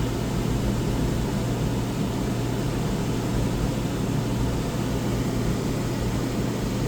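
Two Dometic Penguin II 13.5k rooftop RV air conditioners running together with their fans on low: a steady low hum under an even rush of blower air.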